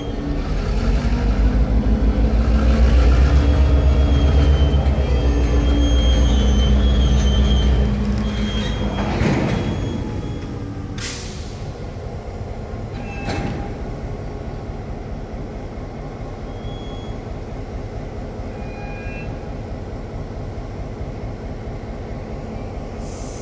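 CN diesel locomotive and slug rolling slowly past, the engine rumbling loud and steady with thin wheel squeal, then fading away after about eight seconds. Two brief sharp sounds follow, a couple of seconds apart, over a steady low background.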